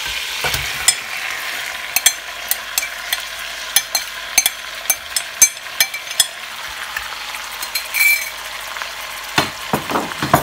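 Hot ghee with ginger-garlic paste and whole spices sizzling in a pan as yogurt-marinated chicken pieces are dropped in, with frequent sharp pops and crackles. A few louder knocks come near the end.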